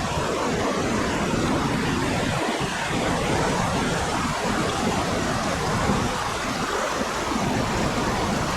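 Steady, loud rush of whitewater on a river, an even roar of water with no breaks.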